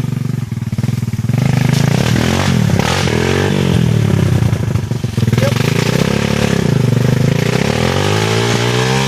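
Dirt bike engine running close by, getting louder about a second in, then revving with its pitch rising and falling several times.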